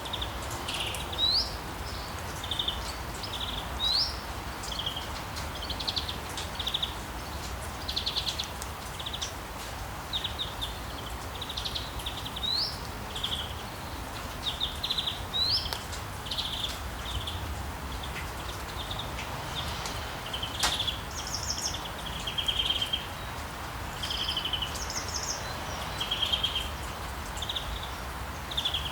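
Steady rain with many small birds chirping over it: short trilled notes repeated over and over, and now and then a quick upward-sweeping whistle. One sharp click about twenty seconds in.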